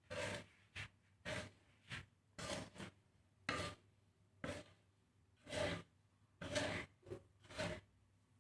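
Seed mix of millet and black glutinous rice being stirred and scraped round a pan while dry-roasting. It comes as short rasping strokes, about a dozen, roughly one a second or faster and unevenly spaced.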